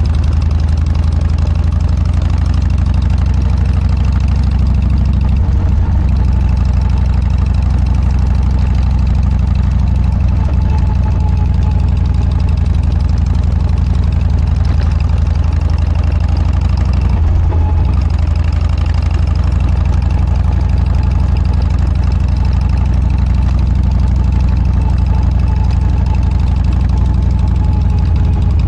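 Harley-Davidson Dyna's V-twin engine running through a Motorstage aftermarket muffler: a steady, loud, low exhaust note, briefly changing about seventeen seconds in.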